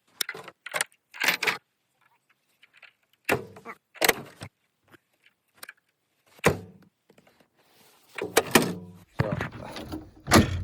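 Metal clanks and rattles from a John Deere Gator's tailgate and its support cables being handled: a string of separate knocks, with a busier, louder clatter and a heavy knock near the end.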